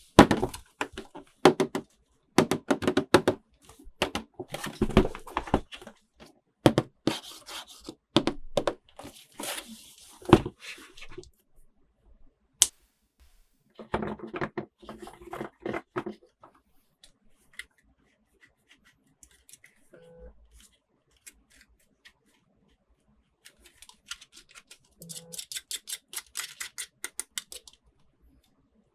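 Toy packaging being opened and handled: bursts of crinkling and tearing with sharp clicks and light thunks, a quieter stretch with scattered small clicks, then a quick run of clicks near the end.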